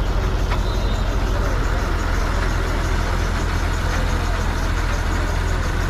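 Heavy truck's diesel engine running steadily close by, a constant low rumble.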